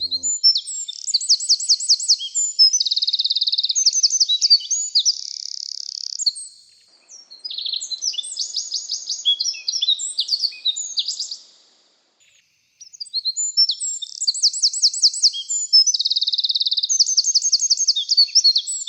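Eurasian wren singing: loud, fast, energetic phrases of high trills and rattles. It sings three long bursts of song, with short pauses about 7 and 12 seconds in.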